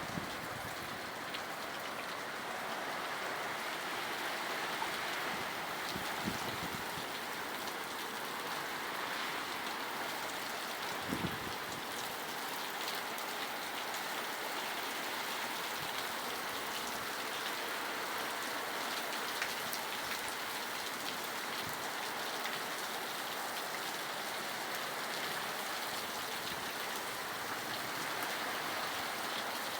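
Heavy rain falling steadily, an even hiss of rain on surfaces, with a few brief low thumps.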